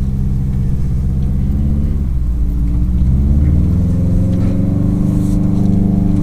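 Subaru WRX STi's turbocharged flat-four engine under way. Its note drops about two seconds in, then rises in pitch over the next couple of seconds as the car accelerates, and holds steady near the end.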